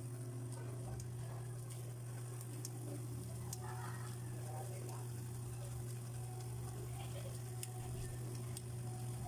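Sauce sizzling and bubbling in a wok as rice noodles are tossed through it with metal tongs, with a few light clicks. A steady low hum runs underneath.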